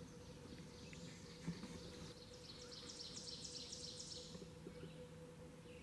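A distant bird's faint, high-pitched trill of rapid repeated notes, lasting about two seconds in the middle, over a steady low hum.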